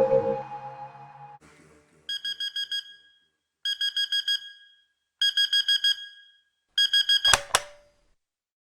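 Music fading out, then a digital alarm clock beeping in four bursts of rapid high beeps about a second and a half apart. The last burst ends in a sharp click.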